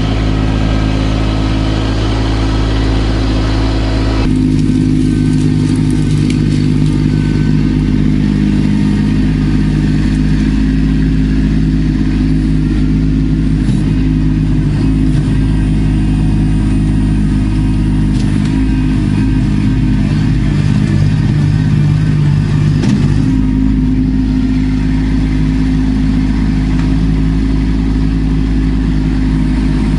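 Kubota B2650 compact tractor's diesel engine running steadily, its tone shifting about four seconds in and again a little after twenty seconds.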